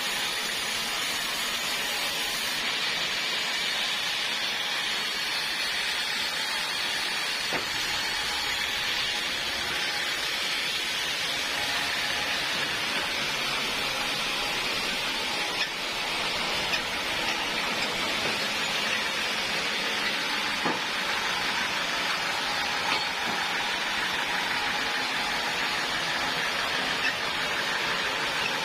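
Portable sawmill cutting through a log, a steady hissing noise with a few faint clicks.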